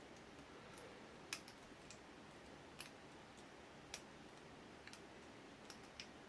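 Faint, scattered metallic clicks of a lock pick and tension tool working the pins of an ABUS 83AL/45 padlock cylinder, about eight irregular ticks over a few seconds against near silence.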